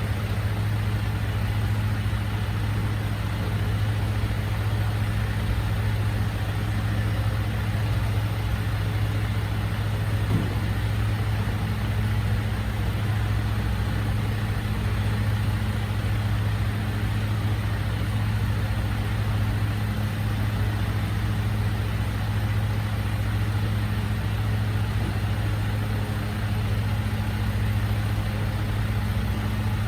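Recycling truck's engine idling steadily with a constant low hum, with one short knock about a third of the way in.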